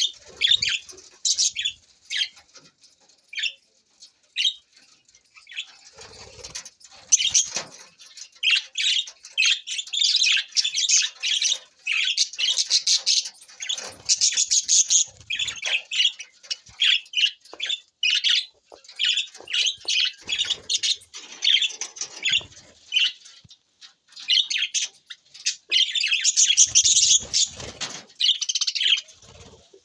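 Budgerigars chirping and warbling in quick, high chatter. The calls come in scattered bursts at first and become almost continuous about seven seconds in, with brief pauses.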